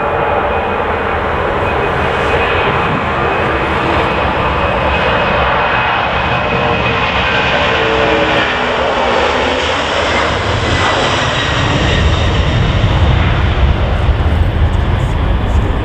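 Jet airliner engines running loud and steady, with a faint high whine. A low rumble grows heavier over the last few seconds.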